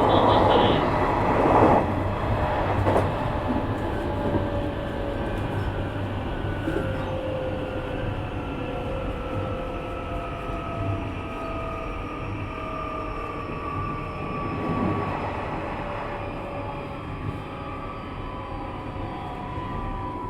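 Nishitetsu 3000-series electric train heard from inside a passenger car: the inverter and traction motors whine in several tones that slowly fall in pitch as the train slows, over steady wheel and running noise that gradually gets quieter.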